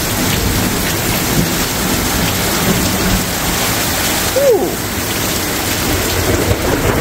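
Heavy rain pouring steadily onto paving and lawn, with a low rumble of thunder underneath. About four and a half seconds in, a single short call rises and falls once.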